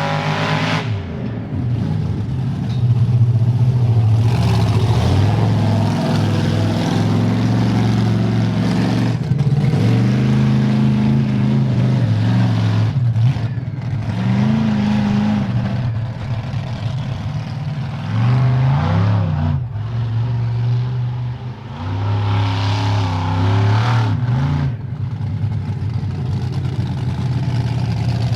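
Bigfoot 18 monster truck's engine running hard as the truck is driven, the revs climbing and dropping again and again every few seconds.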